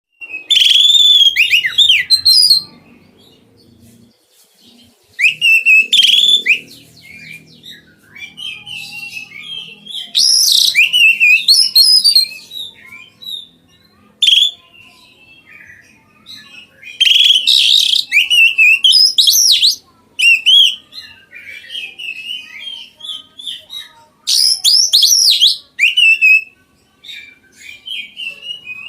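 Oriental magpie-robin (kacer) singing: loud bursts of rapid, rising and falling whistled phrases about every five to seven seconds, with softer twittering between them.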